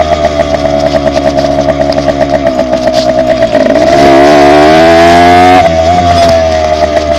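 Dirt bike engine running loud, dipping briefly about three and a half seconds in, then revving up in a rising pitch before easing off suddenly near six seconds.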